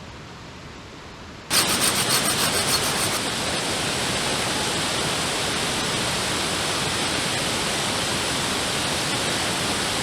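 A gas torch lit about a second and a half in, blasting a loud, steady hiss into the campfire wood to get it burning, with some flutter as the flame catches at first.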